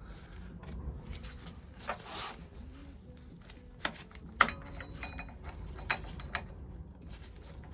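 Metal tools knocking and clicking on engine parts as a stuck gear is worked off with a puller. There is a short scrape about two seconds in and a few sharp metallic knocks, the loudest about four and a half seconds in.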